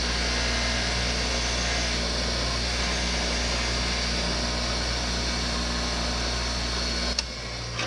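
Electric power tool running steadily with a motor hum and a hiss, cleaning up a Jeep transfer case shifter shaft. It is switched off about seven seconds in with a click, and a second click follows near the end.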